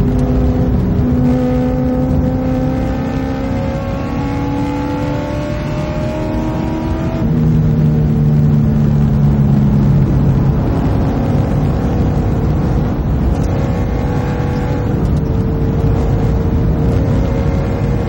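Car engine heard from inside the cabin while lapping a race track, pulling hard with its pitch climbing for several seconds. About seven seconds in the pitch drops sharply, as at an upshift, and the engine pulls on at a steadier, slowly rising note over a constant low rumble.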